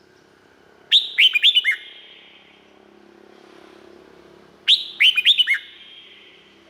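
Red-whiskered bulbul singing: two short phrases about four seconds apart, each a quick run of four or five loud whistled notes that slide down in pitch.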